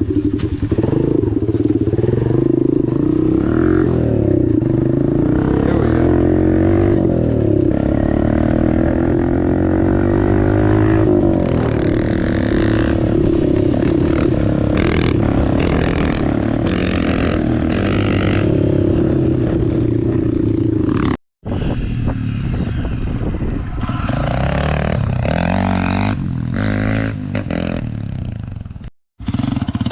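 Dirt bike engine running and revving as it is ridden, its pitch rising and falling with the throttle, with clattering over the rough ground. The sound cuts out completely twice for a moment in the second half.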